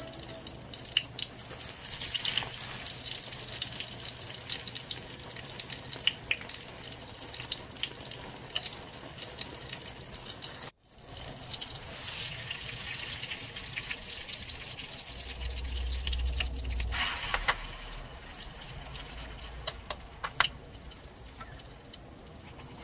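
Egg-dipped eggplant (tortang talong) frying in hot oil in a wok: a steady sizzle, with light clicks of a fork and spoon among the pieces. The sound cuts out for an instant near the middle.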